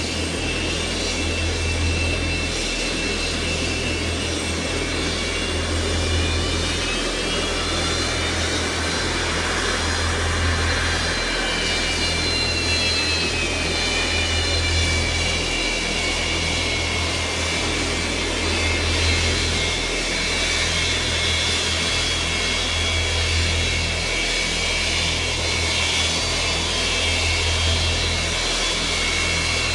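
Jet engines of the Antonov An-225, six turbofans, running continuously: a steady rushing noise laced with high whining tones that slowly slide in pitch.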